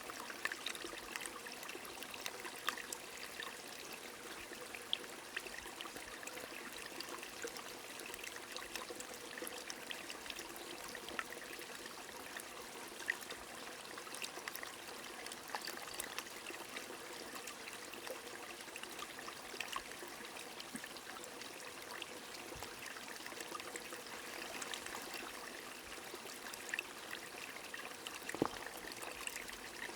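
Small stream trickling steadily, with rain falling and scattered drops ticking sharply throughout.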